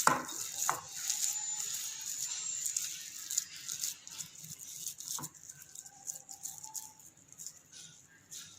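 Faint mixing of a soft chicken-and-potato cutlet masala in a bowl, with two light knocks against the bowl, one about a second in and one about five seconds in.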